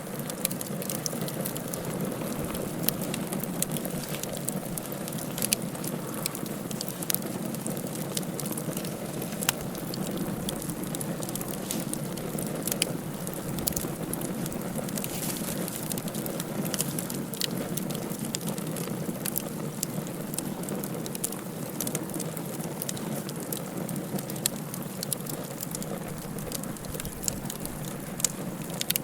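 Wood fire burning in a fireplace: a steady low rushing hiss with frequent irregular crackles and sharp pops.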